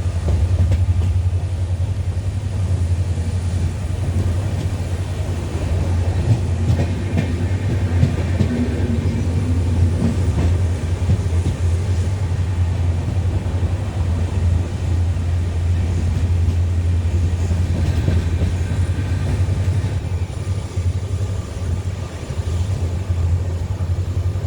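Passenger express train rolling on the rails under way, a steady loud rumble of wheels and running gear.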